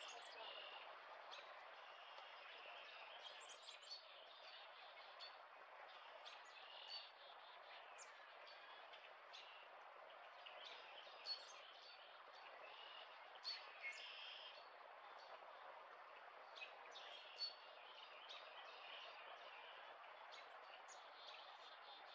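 Faint, scattered chirps and tweets of small birds over a steady low background hiss.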